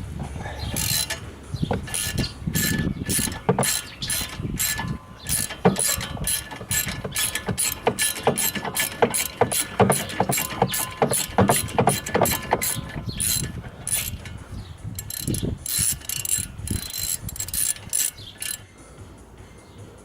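Hand ratchet clicking in a quick, even run of strokes while turning a bolt on a front brake caliper. It stops about a second and a half before the end.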